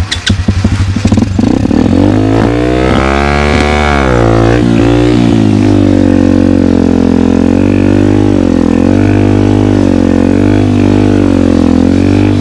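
Two-stroke dirt bike engine catching with a quick run of pops, then revved up, its pitch climbing to a peak about three seconds in and dropping back. It then runs loudly under a varying throttle, its pitch rising and falling.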